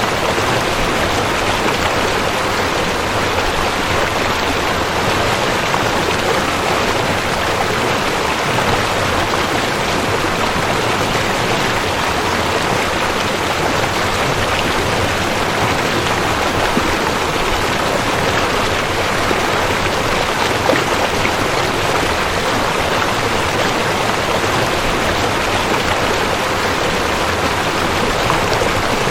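Waterfall: a steady, unbroken rush of falling water, even and unchanging like white noise.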